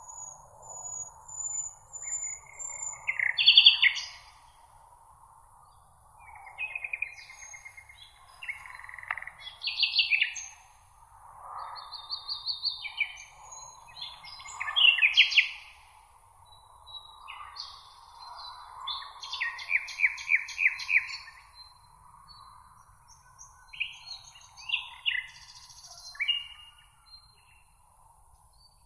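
Several songbirds singing in short phrases and trills, one after another every second or two, over a steady high hiss.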